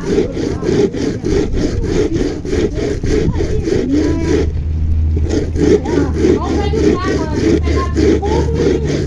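Ears of fresh corn being grated by hand on a grater for pamonha: quick, even scraping strokes, about four a second, with a short pause near the middle.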